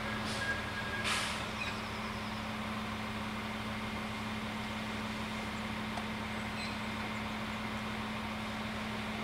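LINT 41 diesel railcar's engine running steadily with a constant low hum, and two short hisses of air released in the first second or so.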